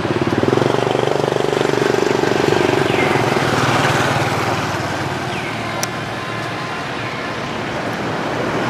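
An engine running steadily with a fast pulsing note, loudest over the first few seconds and then easing off, with short falling high chirps recurring every couple of seconds.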